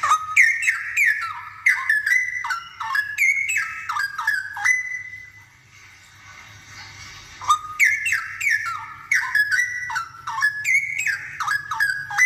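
Straw-headed bulbul singing two bursts of loud, rich, liquid whistled phrases made of quick falling notes, with a pause of about three seconds between them.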